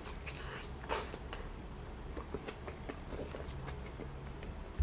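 Faint chewing and biting of food, with scattered soft mouth clicks, the clearest about a second in.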